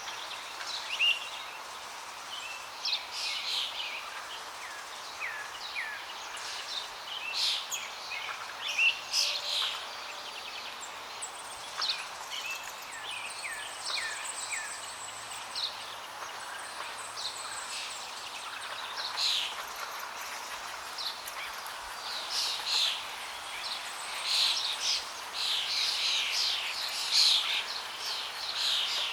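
Songbirds chirping and calling throughout, with short quick notes and down-sweeping whistles, busiest near the end, over a steady rush of flowing water.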